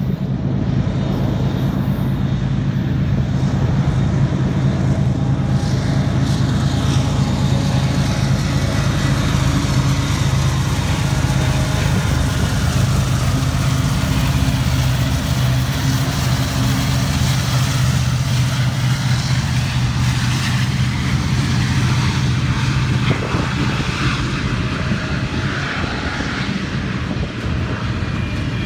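Union Pacific diesel freight locomotives passing close by with a loud, steady low engine drone. After about twenty seconds the engine sound fades and the double-stack container cars follow, their wheels running over the rails.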